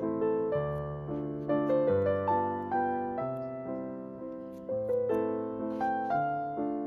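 Soft piano music: a slow melody of single notes over sustained bass notes, each note struck and then fading.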